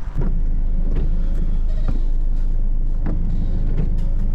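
Vehicle engine running with a steady low drone, heard from inside the minivan, with a few light clicks over it.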